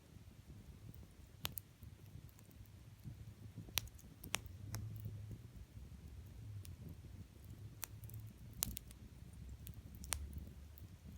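Wood bonfire burning directly on the ground: sharp, irregular crackles and pops from the burning wood, about a dozen scattered through, over a low steady rumble.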